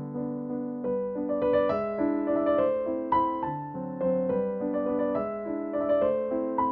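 Background music: a gentle melody played on piano, with notes in an even rhythm.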